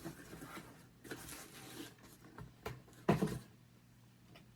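A few short rustles and knocks from objects being handled, the loudest about three seconds in, then quiet with a faint steady hum.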